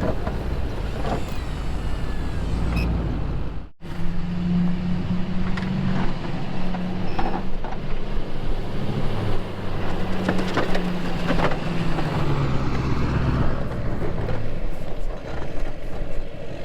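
Truck engine running, its pitch shifting now and then. The sound breaks off abruptly about four seconds in and picks up again as another stretch of engine noise.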